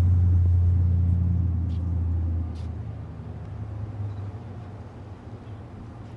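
A steady low rumble, loud for about two and a half seconds and then dropping suddenly to a quieter rumble.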